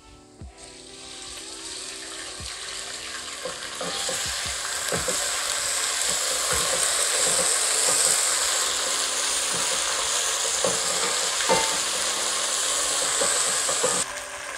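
Ginger-garlic paste sizzling in hot oil with browned onions in a pot, stirred with a wooden spatula that knocks against the pot now and then. The sizzle builds over the first few seconds and drops off near the end.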